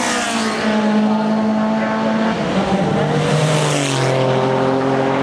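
Racing saloon and sports cars going past at speed one after another, each engine note dropping in pitch as it passes, with a loud rush of noise as one car goes by around the middle.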